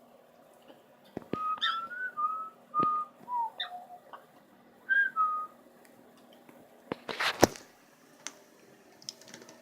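Pet bird whistling a short series of clear, mostly level notes, a few dropping lower, in two brief phrases. A sharp clatter about seven seconds in.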